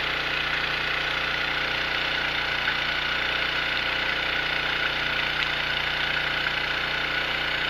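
Small gasoline engine of a gold suction dredge running steadily at a constant speed.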